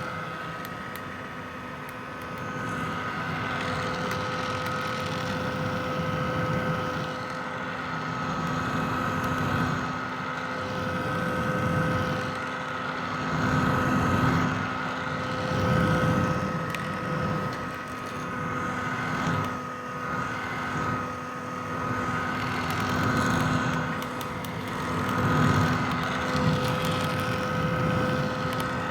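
Red vintage hair dryer running continuously: a steady motor whine over the rush of blown air. The air rush swells and eases every few seconds.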